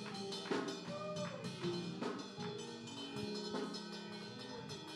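Soft instrumental church music: held chords with a few light drum hits.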